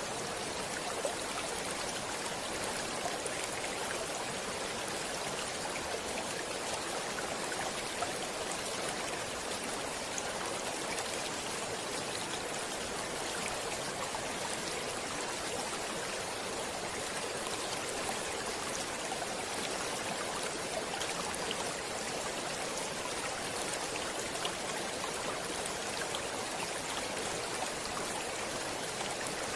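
Stream water flowing steadily over rocks, a constant rushing with small splashes and trickles throughout.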